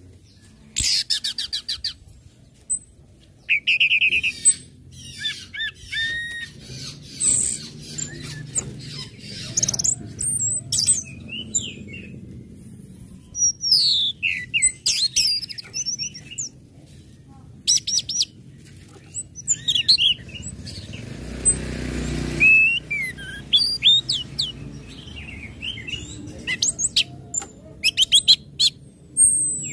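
Orange-headed thrush singing: varied, high whistled phrases with quick sweeping notes, broken by fast runs of sharp chip notes (ngecit, ngecip). A short rustling noise comes about two-thirds of the way through.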